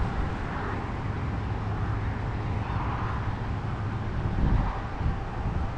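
Steady low vehicle rumble with wind noise, swelling a little about halfway through.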